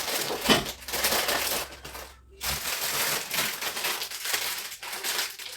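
Plastic food packets crinkling and rustling as they are handled and rearranged, with a short pause a little over two seconds in.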